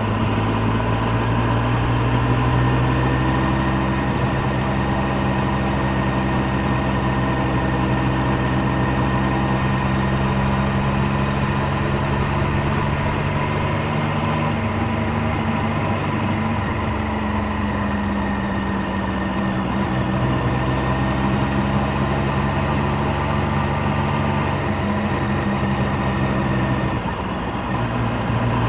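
Triumph Street Triple 765's three-cylinder engine and exhaust running steadily while the bike is ridden, its note shifting in pitch about halfway through and dipping briefly near the end.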